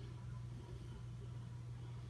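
Quiet room tone: a steady low hum under faint hiss, with no distinct sound events.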